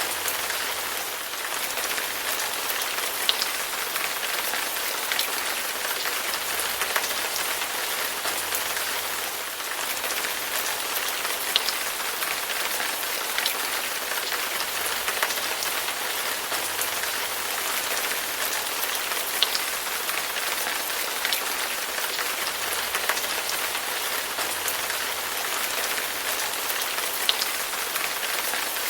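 Steady rain falling, an even hiss with scattered louder individual drops ticking.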